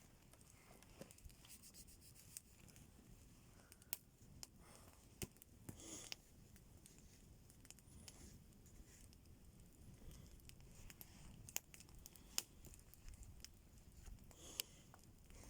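Faint campfire crackling: irregular sharp pops and snaps from burning wood, with a couple of brief soft rustles.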